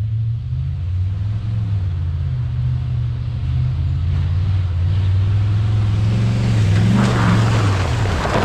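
Truck's 5.3 LS V8 engine running at low revs under light load, with its pitch rising briefly about seven seconds in. A rush of noise joins it near the end.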